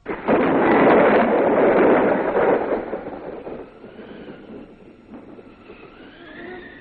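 Cartoon sound effect: a sudden loud rushing noise that fades away over about four seconds, with faint music coming in underneath.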